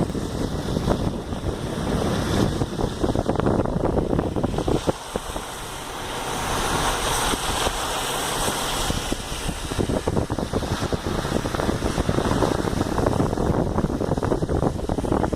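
Strong gusty wind buffeting the microphone with a rough, rumbling roar. About five seconds in the low rumble eases for a few seconds while a higher hiss rises, then the buffeting returns.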